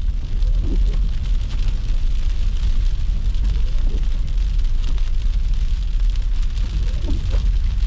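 A car driving, heard as a steady, loud low rumble of engine and road noise with a light hiss over it.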